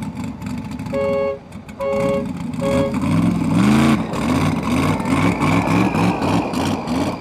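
Vehicle horn sounding three short two-tone toots, then a vehicle engine revving up and running on with a rapid, even pulsing note.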